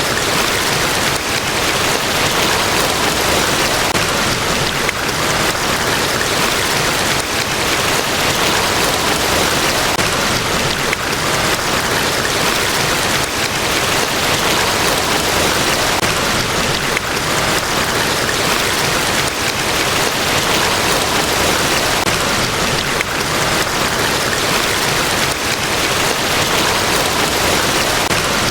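Large waterfall crashing, a steady, dense roar of falling water with no change.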